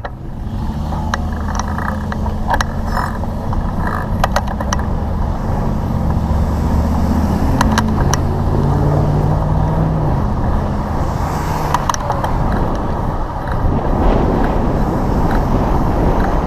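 A motor vehicle's engine running close by, its note rising for a few seconds near the middle as it pulls away. Several sharp clicks come in the first few seconds, and wind buffets the microphone in the last few seconds.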